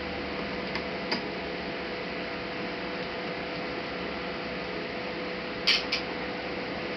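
Light clicks of small hand tools and laptop parts being handled: a faint pair about a second in and a louder double click near the end, over a steady electrical hum and hiss.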